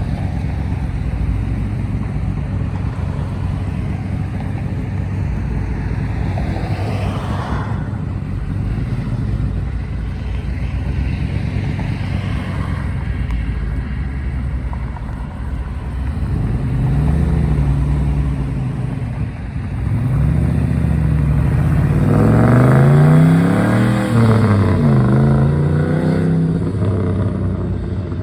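Car engines rumbling at low speed, then a car accelerating away in the last third, its engine note climbing and dropping several times as it goes up through the gears. It is loudest a few seconds before the end.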